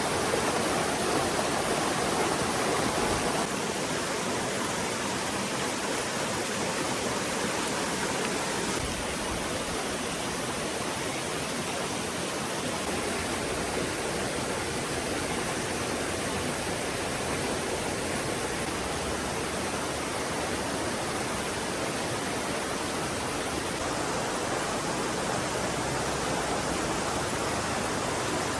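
Rushing water of a forest stream, a steady even hiss that shifts slightly in level a few times.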